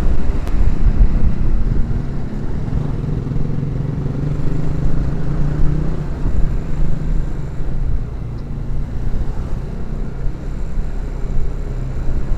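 Motorcycle engine running while riding on the road, with a dense low rumble of wind and road noise on the camera's microphone.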